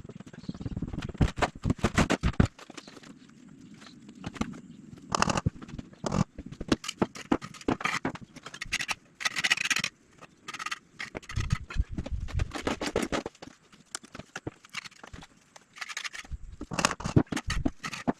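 Irregular knocking, tapping and scraping of hand construction work, with a longer, harsher scrape about halfway through.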